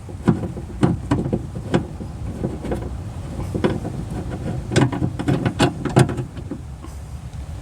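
Irregular metallic clicks and knocks of a hand tool working screws loose in a car door's inner frame, in several quick clusters.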